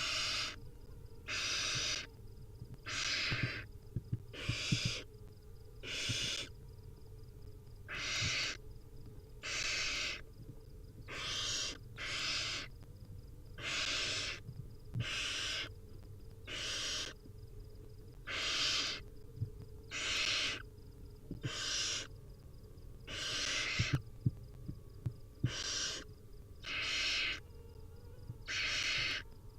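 Barn owl nestlings giving their hissing begging calls, a rasping hiss about every second and a half to two seconds.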